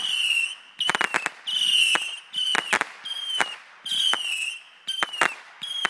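Consumer fireworks going off in quick succession: short whistling shrieks, each slightly falling in pitch, about one a second, mixed with sharp cracks and pops.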